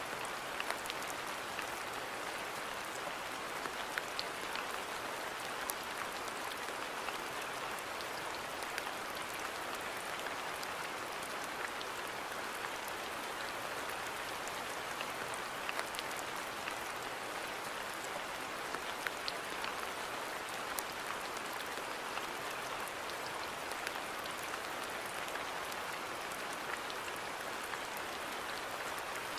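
Steady rain falling in a garden, an even hiss with scattered sharp drop ticks.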